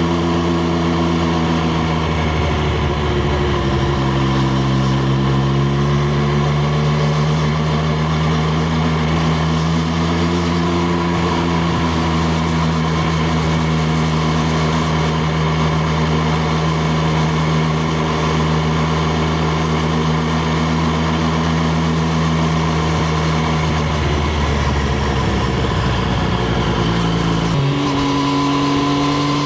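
Triumph Street Triple RS's 765 cc inline three-cylinder engine running at a steady speed on the move, its note sagging slightly twice, then jumping abruptly higher near the end.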